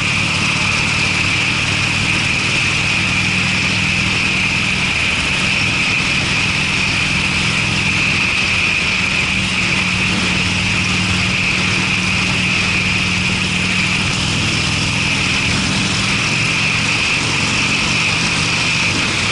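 Harley-Davidson Sportster V-twin running through aftermarket Screamin' Eagle mufflers at a steady, even engine speed while riding, with a steady hiss over it.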